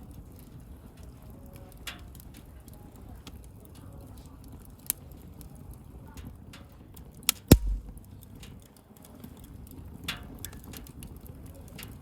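Wood campfire crackling, with scattered small snaps over a low steady rumble of the burning fire and one loud pop a little past halfway.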